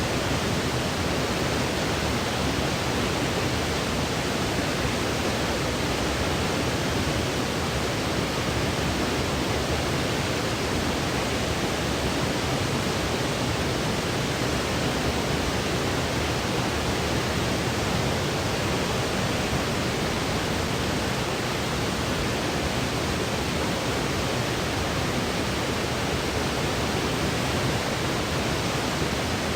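Steady, unchanging white noise: an even hiss across all pitches, played as a sleep aid for a baby.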